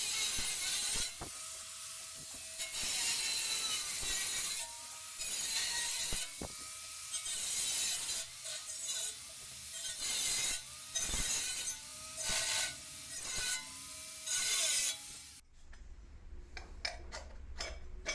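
Steel being worked by hand: uneven scraping strokes with a faint squeal, each half a second to two seconds long. They stop abruptly near the end, and a few light metal clinks follow.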